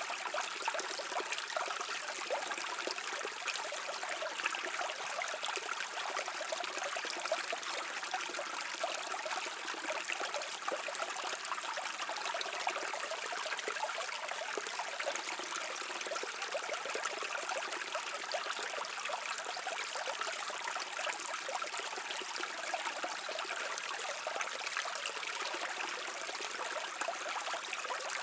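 A brook running over stones: a steady rush of flowing water with constant small splashing and trickling.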